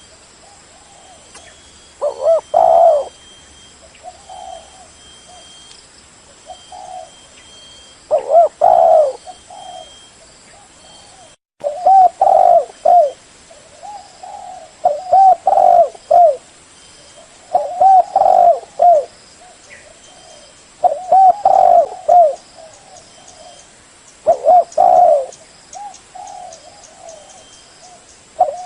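Spotted dove cooing: its short, wavering coo phrase repeated about every three seconds, some phrases loud and close, others fainter.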